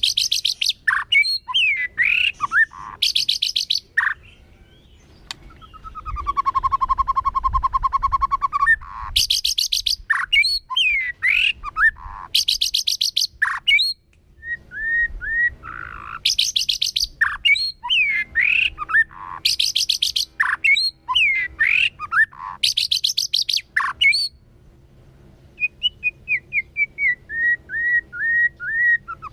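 White-rumped shama singing a varied song. Loud rattling trills alternate with clear whistled slurs, and about six seconds in it holds one long buzzy note for some three seconds. Near the end comes a quick run of a dozen or so short, evenly spaced notes.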